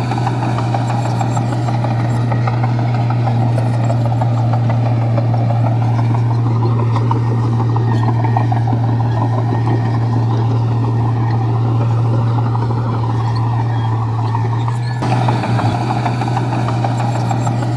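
Komatsu bulldozer's diesel engine running steadily, a deep constant hum with mechanical clatter over it as the dozer works rock fill.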